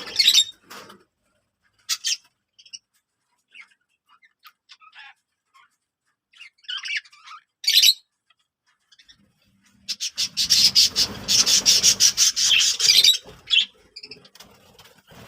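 Birds chirping in short, scattered high calls. From about ten seconds in they turn into a dense, busy run of rapid chirps with a rough rustling noise beneath.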